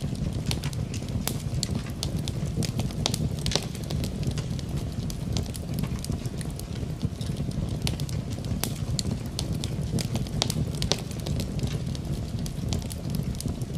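Wood fire crackling in a fireplace, with frequent sharp, irregular pops over a steady low rush, blended with the sound of rain.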